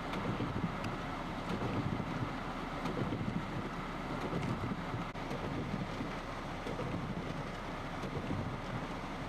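Wind buffeting the microphone outdoors: a steady, fluttering low rumble.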